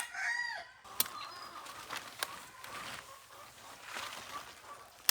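A rooster crowing, its crow trailing off and ending about a second in. Faint rustling and a few sharp clicks follow.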